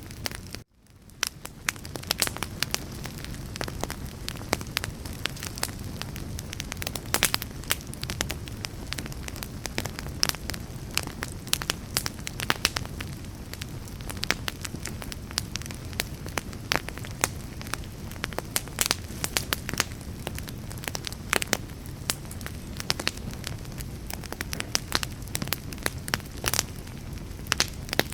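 Wood fire burning, with a steady low rush and frequent sharp crackles and pops. The sound cuts out briefly about half a second in, then fades back up.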